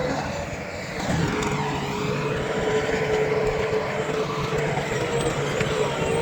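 Diesel engine of heavy earthmoving machinery (bulldozer or dump truck) running steadily under work, with a steady whine over the engine noise.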